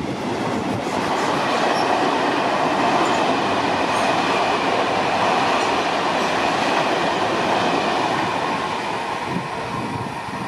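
A train running past close by: a loud, steady rush of wheel and rail noise that eases a little near the end.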